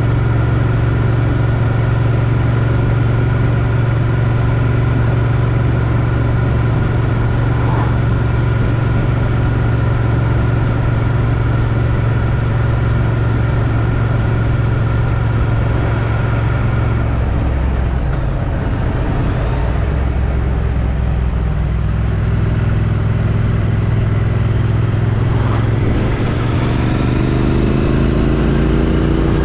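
Triumph Street Twin's stock-exhaust parallel-twin engine running on the road at a steady pitch, with wind noise on the helmet-mounted microphone. About two thirds of the way through the note drops as the throttle eases, then it holds steady, and near the end the revs rise as the bike accelerates.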